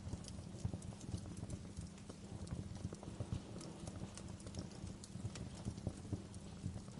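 Wood fire crackling in a fireplace: irregular snaps and pops over a steady low rumble of burning.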